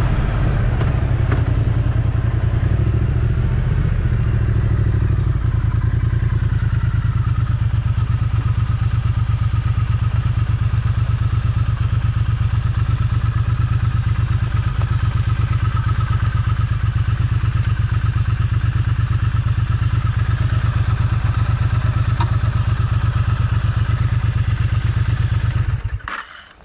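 Triumph Street Twin's 900 cc parallel-twin engine on its stock exhaust, settling in the first few seconds to a steady, even idle. It cuts off suddenly near the end.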